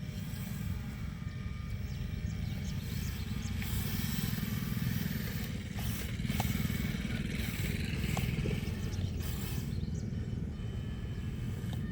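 A motor running steadily, with louder, rougher noise through the middle.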